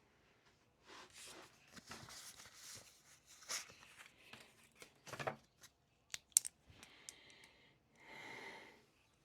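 Close-up rustling and handling noises at a desk, with a few sharp clicks in the middle and a short rustle near the end.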